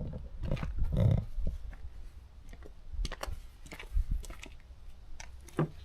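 Scattered light clicks and knocks, a handful of separate strikes, over a faint low rumble.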